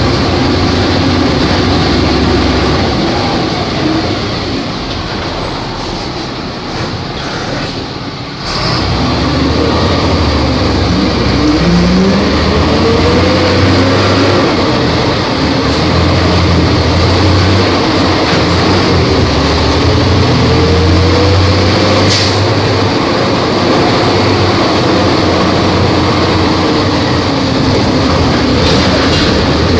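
Volvo B270F bus diesel engine running on the road, its revs falling away over the first seconds with a short break about eight seconds in. The engine then picks up again and climbs in pitch, settling into a steady pull before rising once more near the end.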